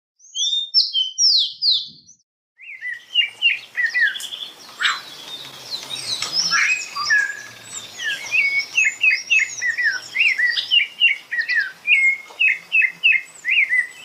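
Several birds chirping and singing together, many short repeated chirps and whistles overlapping. A quick run of chirps opens, there is a brief gap about two seconds in, then a busy chorus of birds carries on.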